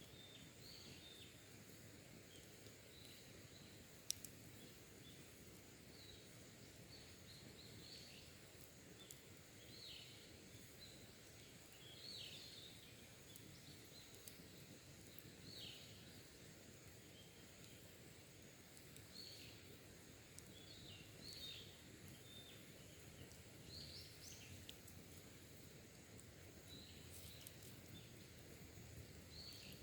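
Faint wild birds chirping in short, scattered calls over a quiet outdoor noise bed, with a single sharp click about four seconds in.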